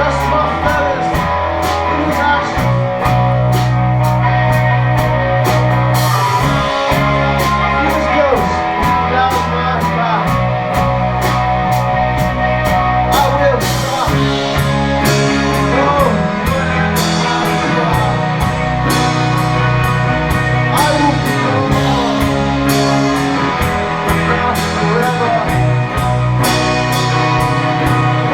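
Live rock band playing: electric guitars over a sustained bass line, with a drum kit keeping a steady beat of cymbal and snare hits.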